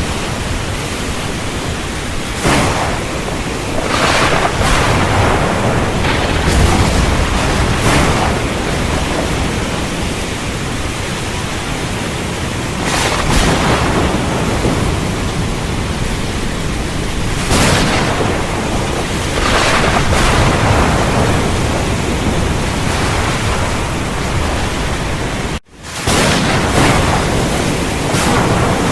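Heavy rain with thunderstorm rumbles: a steady downpour that swells every few seconds over a low rumble. About three-quarters of the way through, the sound drops out for a moment and comes straight back.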